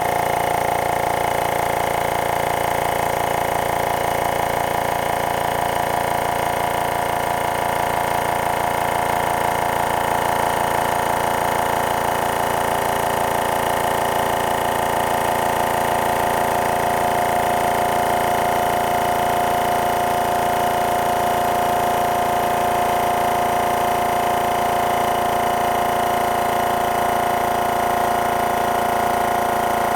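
MAX AK-615PⅡ air compressor running steadily: an unbroken mechanical hum with a strong mid-pitched tone and many overtones.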